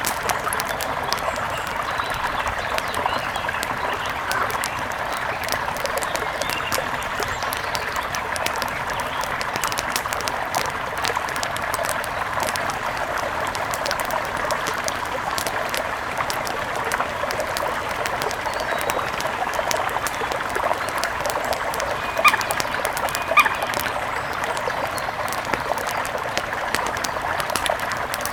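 Steady rush of river water with scattered light ticks, and two short bird chirps about three-quarters of the way through.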